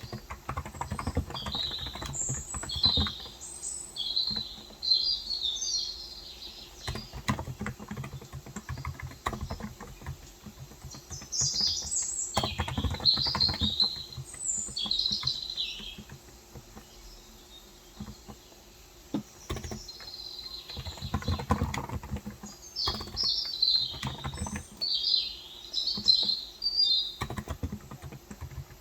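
Small birds twittering in three bouts of rapid high chirps, over the steady clatter of typing on a Cox Endeavor electrostatic capacitive (Topre-style) 35 g tenkeyless keyboard. The typing nearly stops for a few seconds a little past the middle.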